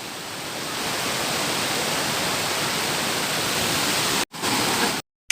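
Steady rush of flowing river water. It drops out for a moment about four seconds in and cuts off abruptly near the end.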